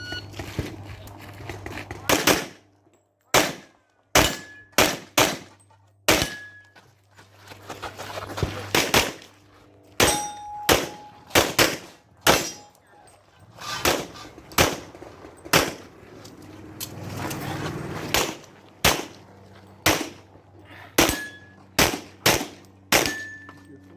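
Pistol shots fired in quick strings with short pauses between groups, as in a practical shooting stage. After a few hits, steel targets ring briefly.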